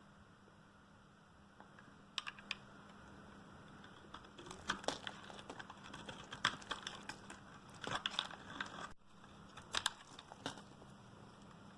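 Blade cutting through a bar of dry, hard Duru soap, giving crisp crunching clicks. A few clicks come about two seconds in, then a dense run through the middle, and a few more near the end.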